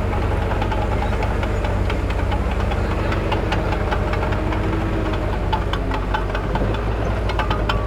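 Heavy diesel engine of earthmoving machinery running steadily, with frequent sharp metallic clicks and clanks over it.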